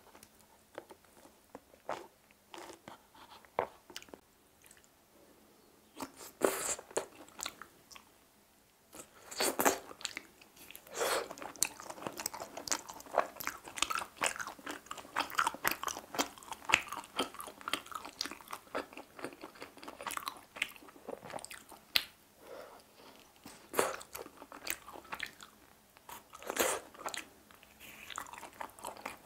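Close-miked chewing and biting of teriyaki-glazed chicken hearts pulled off skewers, with many small wet clicks. Sparse at first, then steady and louder from about ten seconds in.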